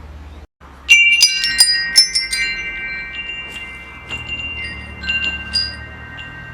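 Metal wind chimes struck in a quick flurry about a second in, several tones ringing on long together, then a few lighter strikes as the ringing fades.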